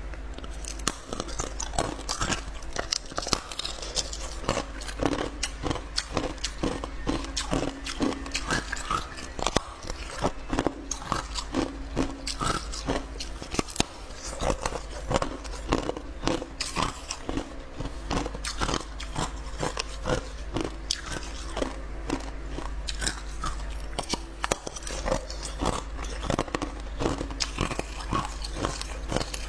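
Clear ice being bitten and chewed: dense, irregular crunching and cracking.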